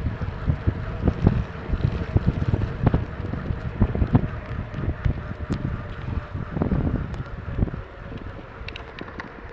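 Wind buffeting the microphone of a camera riding on a mountain bike, with irregular low knocks and jolts from the bike over rough ground. The rumbling eases off about eight seconds in.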